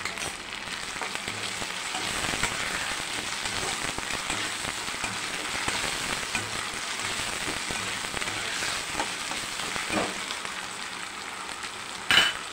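Chopped onions and tomatoes sizzling steadily in hot oil in a non-stick kadai as they sauté, stirred now and then with a steel ladle. A sharp clack near the end.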